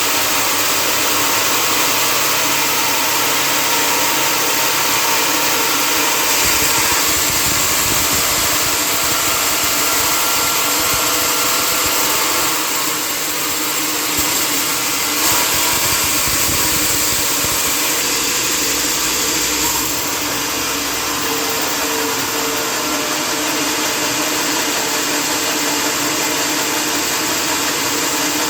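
Sawmill machinery running steadily: a loud, even noise with a constant hum underneath.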